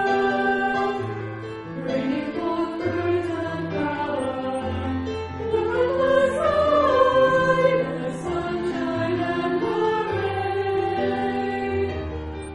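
Church choir singing in parts with long held notes that change pitch in steps.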